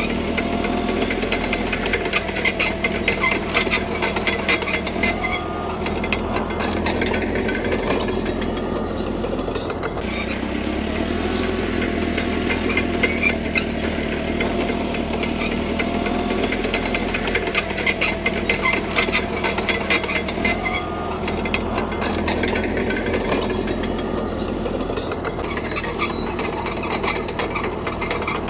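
CAT D3K crawler bulldozer working: its diesel engine runs steadily under load while the steel tracks give a rapid metallic clatter and squeal that comes and goes in spells every several seconds as the blade pushes gravel.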